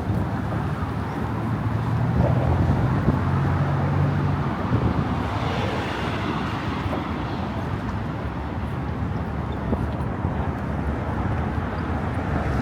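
Steady road traffic noise with a low engine hum through the first few seconds.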